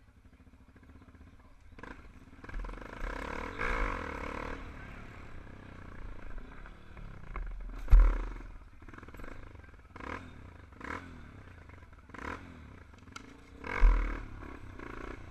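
Motorcycle engines revving in irregular bursts, with two loud low thuds, one about halfway through and one near the end.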